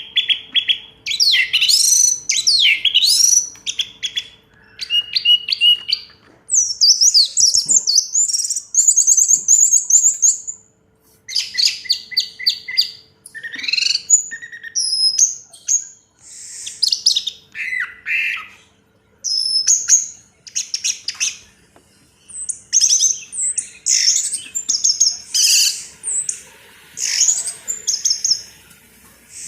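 Orange-headed thrush (anis merah) singing a long, varied song of rapid whistled, sweeping and chattering phrases, separated by short pauses.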